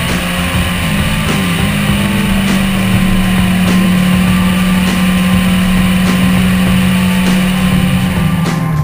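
Honda CBR600F4's inline-four engine running at steady high revs as the motorcycle cruises, its pitch rising a little about a second and a half in and then holding level. A song with a slow, regular beat plays underneath.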